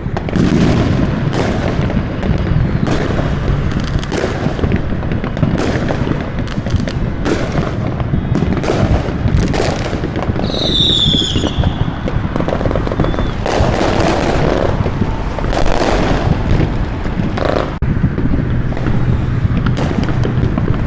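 A continuous barrage of fireworks and firecrackers going off on all sides: sharp bangs about a second apart, some overlapping, each with an echoing tail. About ten seconds in, a whistling firework gives a falling whistle lasting about a second.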